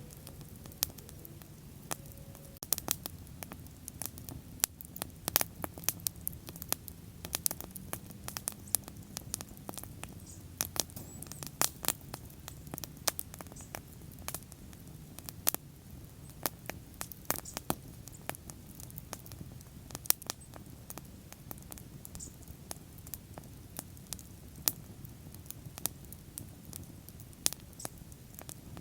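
Wood bonfire crackling: many sharp, irregular snaps and pops over a low steady rumble of burning.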